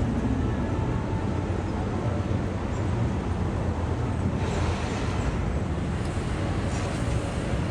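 Steady road traffic noise, a low rumble that brightens slightly about four and a half seconds in.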